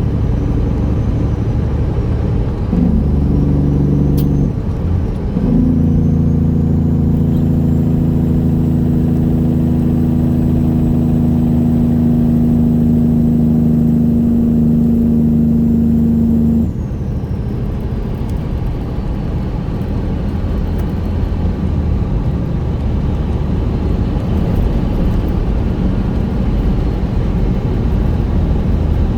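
A Peterbilt 379's straight-piped Detroit Series 60 diesel. A brief pitched burst comes a few seconds in, then a loud steady exhaust note holds for about eleven seconds and cuts off suddenly about halfway through, leaving a lower rumble of the truck rolling on.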